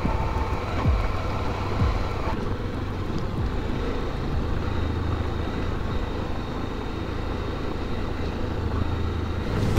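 Honda XRE300 motorcycle engine running steadily while riding, mixed with wind and road noise.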